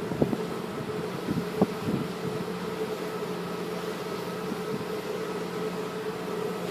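Steady drone of a large car ferry's engines and machinery, an even hum with a few constant pitches and no change in speed.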